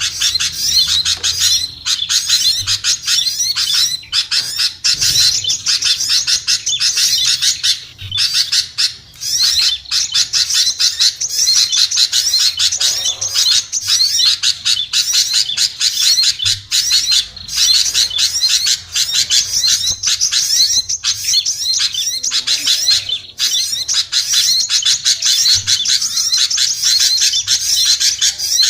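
A dense, busy chorus of small songbirds chattering and chirping rapidly and almost without pause, in high-pitched calls. It is a bird-lure recording of mixed small-bird calls, played to draw small birds down.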